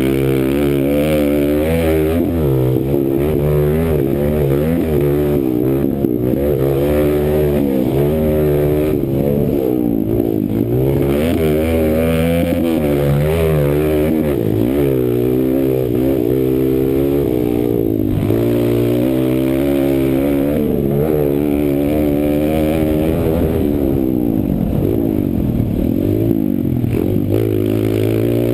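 Kawasaki KLX140 pit bike's small single-cylinder four-stroke engine, ridden hard around a motocross track: the revs climb and drop again and again with the throttle and gear changes.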